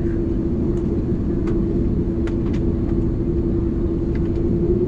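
Airbus A330 engines running, with a low rumble and a steady hum that creeps slightly higher in pitch near the end, and a few faint clicks.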